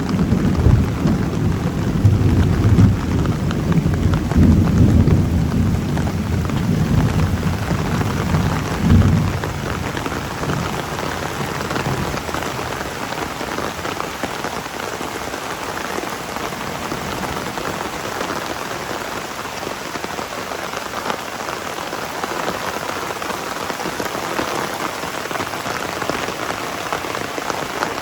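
Heavy rain falling steadily on surfaces. Through the first ten seconds or so a low rolling rumble of thunder swells several times, then fades out.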